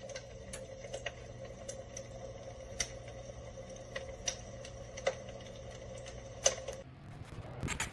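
Electric fireplace insert's built-in crackling-fire sound effect: irregular soft pops and snaps, about one or two a second, over a steady hum. The crackling stops about a second before the end, and a few louder knocks follow.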